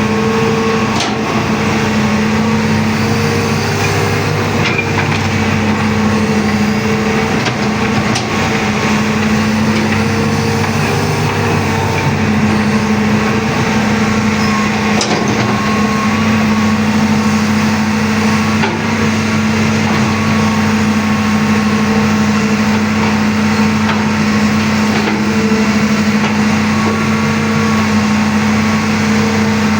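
Excavator's diesel engine running steadily, with a constant low hum.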